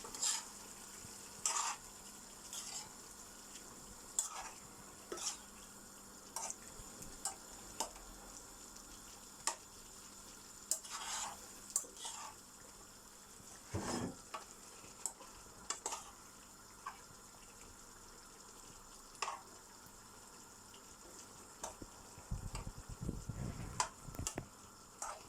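Spiced chicken being stirred in a pot on the stove: a spoon knocks and scrapes against the pot at irregular intervals over a faint steady sizzle.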